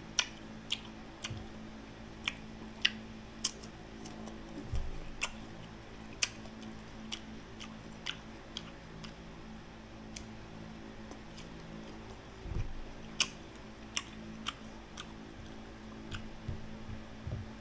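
Crisp unripe green mango being bitten and chewed, a run of sharp irregular crunches about one or two a second, over a steady low hum.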